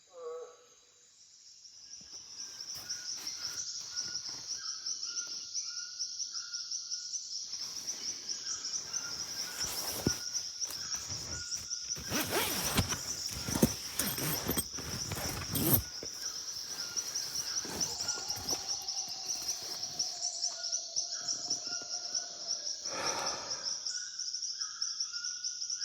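Amazon rainforest night ambience: a steady, fast-pulsing high insect chorus with repeated short chirping calls. There is a stretch of crackling noise around the middle and a long, slightly falling call later on.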